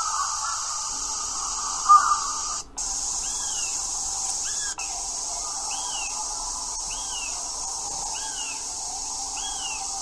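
A bird calling a short note that rises and falls, repeated about once a second from about three seconds in, over a steady high hiss. A brief loud sound comes about two seconds in.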